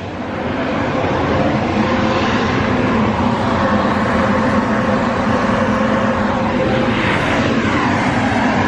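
A loud machine switches on and runs steadily: a rushing, blower-like noise that swells over the first second, with a faint steady hum under it.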